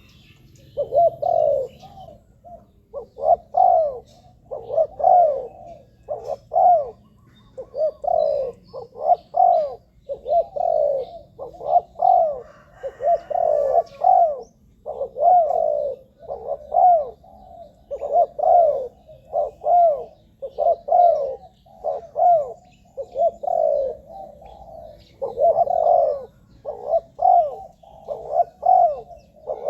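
Spotted dove cooing over and over, one short phrase of low coos after another with barely a pause. It is the call of a decoy dove, the kind played to lure wild doves.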